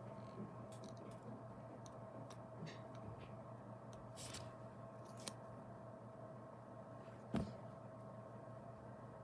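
Faint small clicks and handling noises over a steady electrical hum, with a short scrape about four seconds in and one louder knock about seven seconds in.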